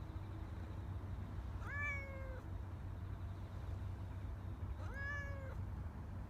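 A cat meowing twice, two drawn-out meows about three seconds apart, each rising a little in pitch and then holding, over a steady low rumble.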